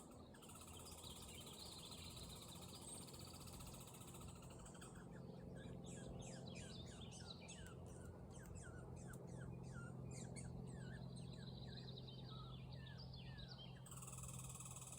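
Faint songbird chirping: a brief warble, then from about four seconds in a long, rapid series of short, downward-sliding chirps that stops about a second before the end, over a low, steady hum.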